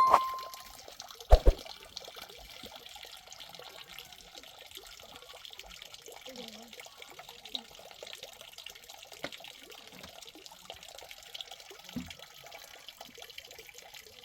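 Water trickling steadily, with small ticks and one sharp knock about a second in.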